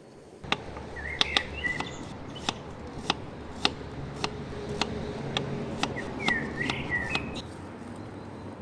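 Knife chopping on a cutting board in a steady rhythm, about two strokes a second, with a bird chirping twice.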